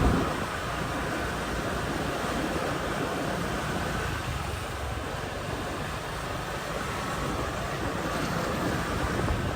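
Steady rushing noise of wind on the microphone and street traffic heard from a moving motorbike.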